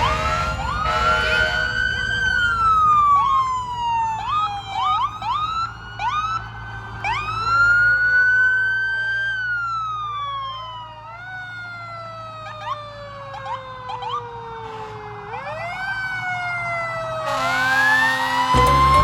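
Several fire truck sirens wailing at once, each rising and falling slowly, out of step with one another, with short quick upward whoops among them and a low engine hum underneath. A louder blare comes in near the end.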